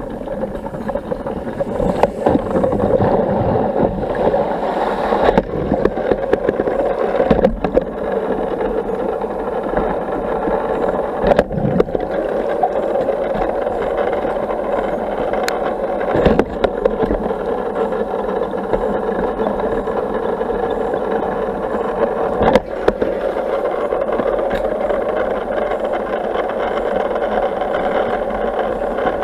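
Intex automatic pool vacuum running on the pool pump's suction: a steady whirring, churning water noise, broken by a sharp knock now and then.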